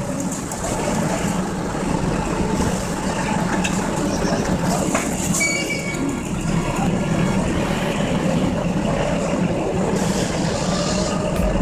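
Heavy vehicle engine running steadily, with a low drone and mechanical rattle throughout.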